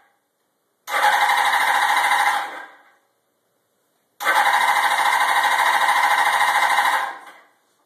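A Suzuki GS650 inline-four motorcycle engine being cranked on its electric starter in two separate bursts, about a second in and again past the four-second mark, each about two to three seconds long. Each burst stops and fades away without the engine catching and running on.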